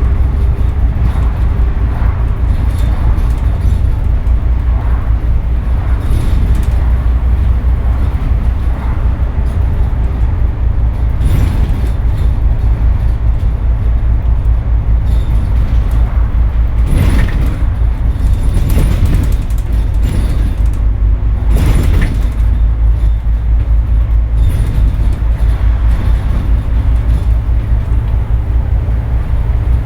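Scania N230UD double-decker bus engine, a 9-litre five-cylinder diesel, running hard under load, heard from inside the bus as a loud, steady low drone. Several brief rushes of noise rise over it, about 11, 17, 19 and 22 seconds in.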